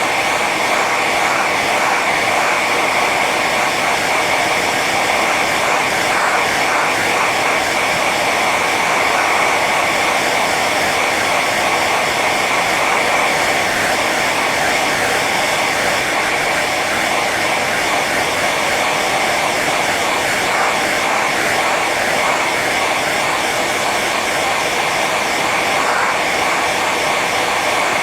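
Hair dryer running steadily on its high setting: an even rush of air with a steady whine from the fan motor.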